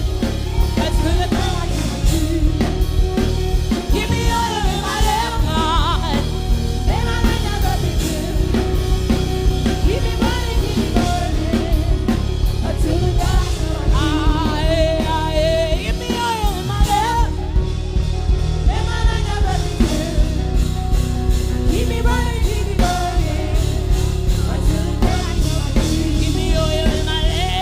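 Live worship music: singing, with wordless vocal runs, over a full band with a steady drum-kit beat.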